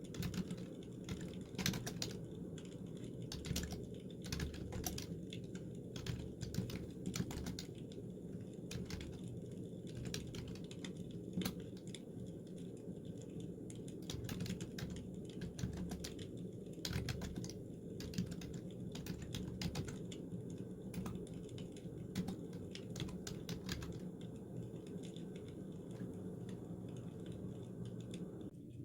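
Typing on a computer keyboard: irregular clicking keystrokes over a steady low hum.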